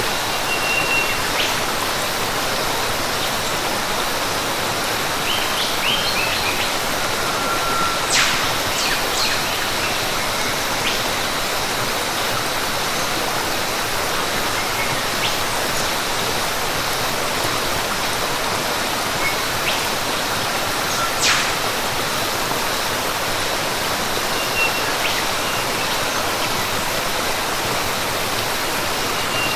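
Steady rushing of falling water in rainforest ambience, with a few short, high bird chirps and a couple of sharp clicks scattered through it.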